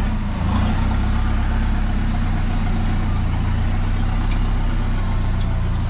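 Off-road 4WD truck engine running steadily at low revs, with an even low hum.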